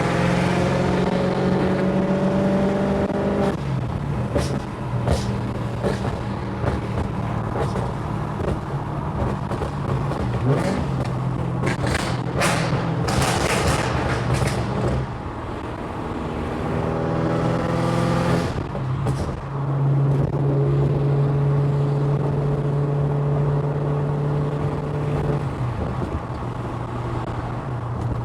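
BMW E39 540i's V8 running through a straight-piped dual exhaust with hollowed-out catalytic converters, a loud steady drone while driving. The drone changes pitch several times, at about 3.5, 15, 19 and 25 seconds in, as the throttle or gear changes, with a few clicks or rustles near the middle.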